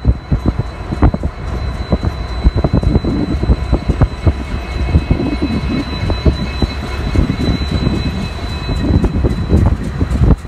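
Union Pacific diesel freight locomotives passing close below, engines running with a heavy rumble and a thin steady high whine over it.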